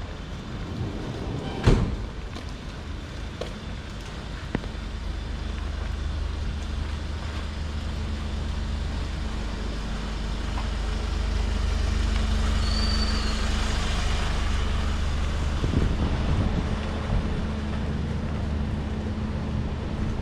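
A vehicle's engine rumbling close by, growing louder through the middle and easing off toward the end, with a brief high squeal near the loudest point. A single sharp knock comes a little under two seconds in.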